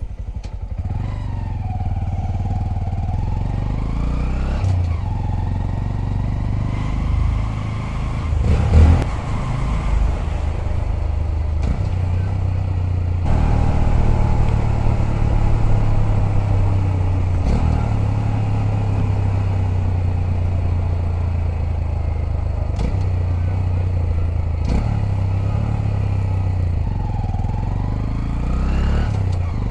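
Honda Grom's 125 cc single-cylinder four-stroke engine running while the bike is ridden, its revs repeatedly rising and dropping as it changes gear. There is a louder surge about nine seconds in.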